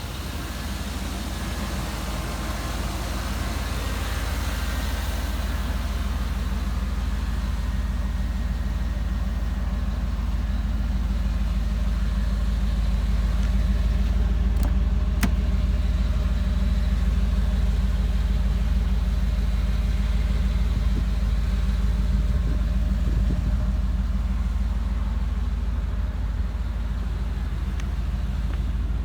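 Chevy 350 small-block V8 of a 1992 Silverado idling steadily with a low rumble, growing louder over the first half. There are a couple of faint clicks near the middle.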